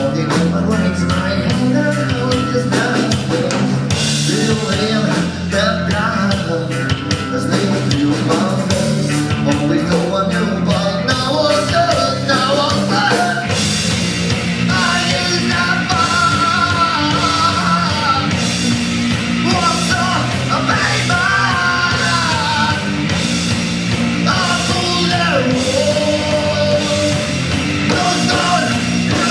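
Live rock band playing a song loud, with drums, distorted guitars and vocals.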